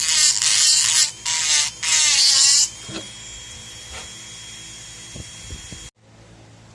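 A small high-speed rotary tool, like a dental lab handpiece, grinding a denture in a few short bursts, its pitch wavering under load. It stops about two and a half seconds in, leaving a faint high whine and a couple of light knocks until a sudden cut near six seconds, after which only a low hum remains.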